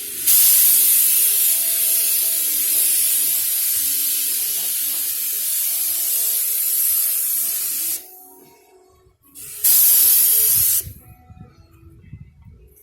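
Compressed-air paint spray gun hissing in one long blast of about eight seconds, then a second short burst of about a second.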